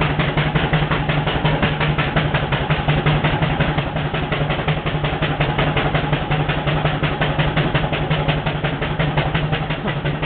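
Wallis steam traction engine working under load up a hill with a trailer behind: rapid, even exhaust beats chuffing steadily, over a steady low hum.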